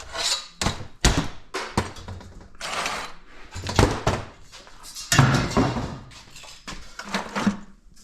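Irregular knocks and thunks with bouts of scraping: scrap metal being worked apart by hand to get the copper out.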